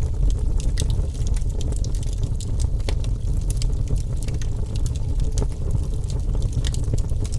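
Wood fire burning, with many small sharp crackles and pops scattered irregularly over a steady low rumble of the flames.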